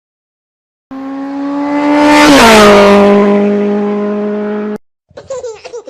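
A fast vehicle passing by, its engine tone and tyre noise swelling to a peak and then dropping in pitch as it goes past. The sound starts and cuts off abruptly, as an inserted sound effect does.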